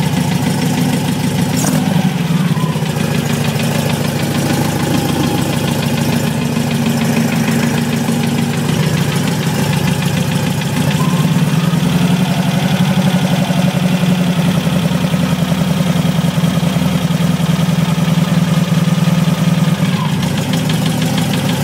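VW Beetle engine idling with a steady knocking. The owner suspects the lifters, loose valves or a bad connecting rod in an engine that has run less than 50 miles.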